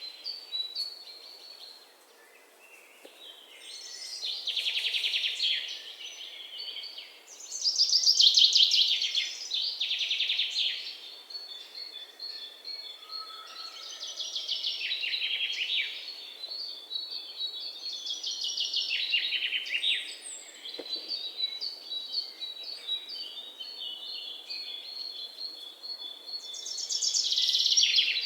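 Songbirds singing: about six rapid trilled phrases a second or two long, several sliding downward in pitch, a few seconds apart, with a thin, high, fast-repeated note between them through much of the middle.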